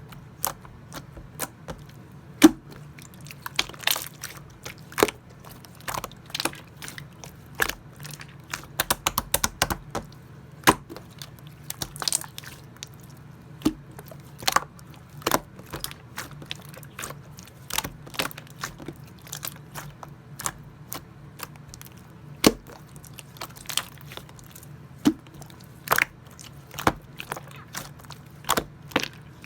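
Clear slime being squished and pressed by hand, giving irregular sharp clicks and pops of trapped air bubbles, over a faint steady low hum.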